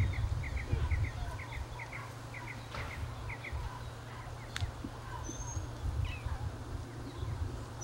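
A small bird chirping a quick, regular string of short paired notes, about two to three a second, that stops about three and a half seconds in; a couple of short high whistles follow, over a steady low rumble.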